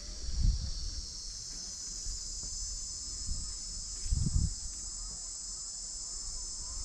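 Steady, high-pitched chorus of insects buzzing continuously, with brief low rumbles about half a second in and again about four seconds in.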